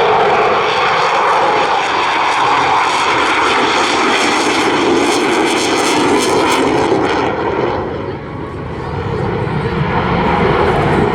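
Eurofighter Typhoon FGR4's twin jet engines heard during a loud, steady flypast, with a rippling sweep in the sound as it passes. The noise drops away about eight seconds in, then builds again.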